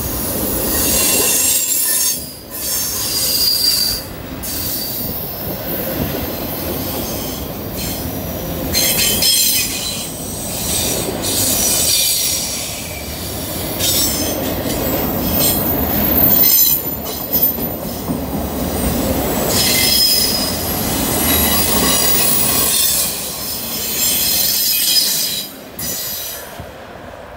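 Freight train's cars rolling past fast on a curve, steel wheels squealing over a steady rumble. The sound drops away near the end as the last car goes by.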